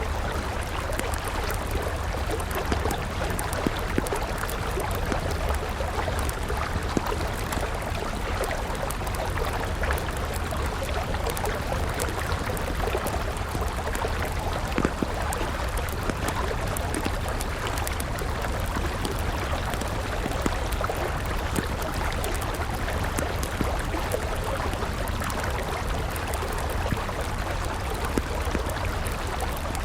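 A river flowing steadily, with a wood campfire crackling over it in frequent small pops and snaps.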